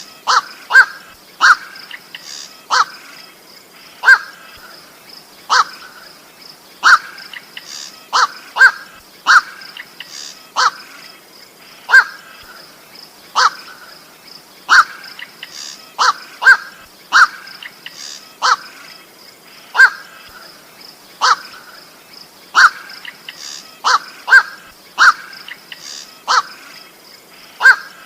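Black-crowned night heron calling: short single 'koak' calls repeated about once a second at an uneven pace, some in quick pairs, as used in a bird-trapping lure recording.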